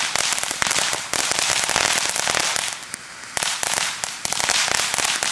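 TNT Fireworks Orange Float fountain firework spraying with dense, fast crackling, easing off briefly about three seconds in before crackling again.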